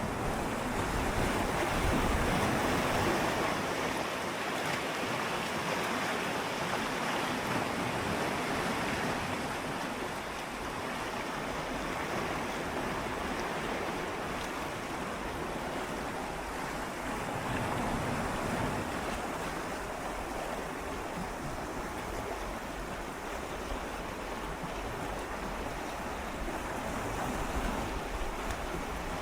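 Gentle sea waves swirling and lapping against shoreline rocks, a steady wash of water that swells slightly a couple of times.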